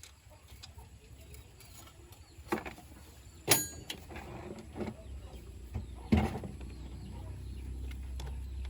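A few sharp metallic clanks and knocks, one of them ringing briefly, over a low steady hum that grows louder in the second half.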